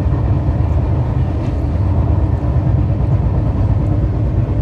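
Steady low rumble of an Indian Railways express train running on the track, heard from inside its air-conditioned 2 AC coach.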